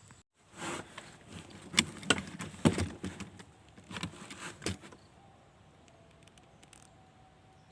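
Close handling noise: an irregular run of rustles, clicks and knocks for about five seconds, then stillness with only faint outdoor background.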